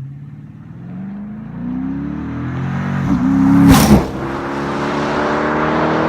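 Car engine accelerating, its pitch climbing over the first three seconds, with a sharp loud burst about four seconds in. It then runs steadily at a higher pitch.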